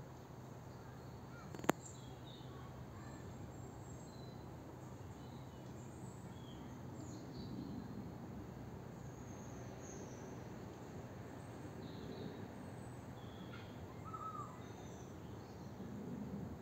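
Birds calling in the trees: scattered short, high chirps throughout, over a steady low background hum. One sharp click comes about two seconds in.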